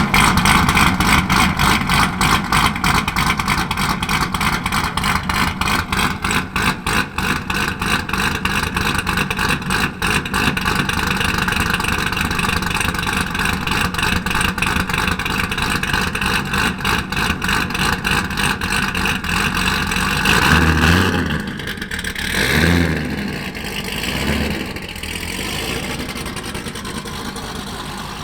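Cammed C6 Corvette V8 exhaust idling with a choppy, lopey pulse from its big aftermarket cam (BTR stage 3). About twenty seconds in, it is revved in three short blips, then settles into a steadier, quieter run.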